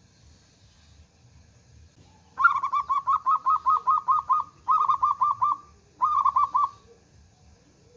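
Zebra dove (local perkutut) singing: a rapid run of cooing notes, about seven a second, in three phrases beginning about two and a half seconds in, the first one the longest.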